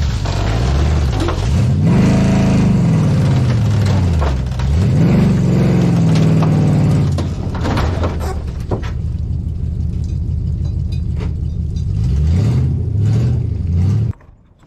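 Pickup truck engine revving up and down several times while driving under load, with a few sharp knocks in the middle; it cuts off suddenly near the end.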